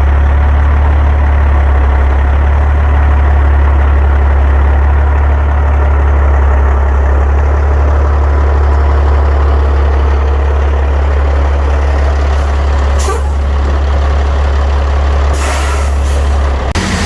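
Heavy diesel engine running with a loud, steady deep drone. Near the end there are short bursts of air brake hiss.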